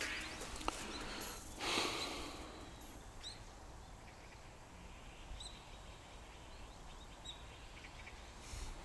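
Quiet outdoor ambience with a brief rush of noise about two seconds in, then faint bird chirps every second or two.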